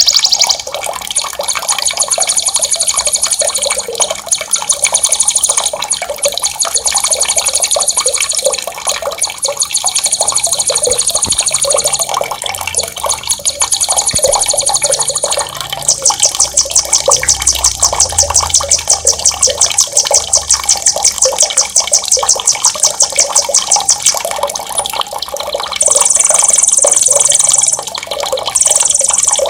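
Songbird singing very fast, high trills in runs of a few seconds each, the longest about eight seconds midway, over a steady wash of running water. It is a sharp, rolling 'ngerol' masteran song used to train competition birds.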